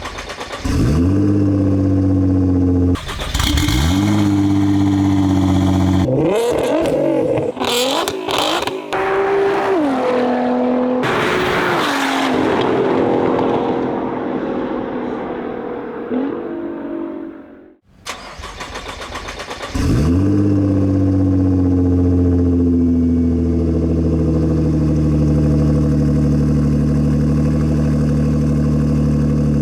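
Nissan GT-R R35's twin-turbo V6 through aftermarket cat-back exhausts, in quickly cut clips: start-ups that flare and settle, several throttle revs, then after a cut another start-up flare settling into a steady high idle.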